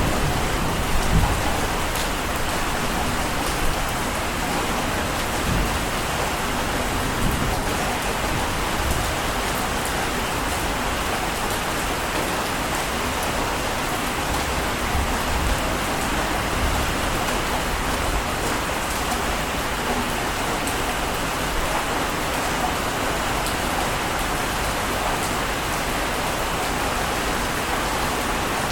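Steady, even rushing-water noise with no distinct swells. A low rumble dies away in the first two seconds.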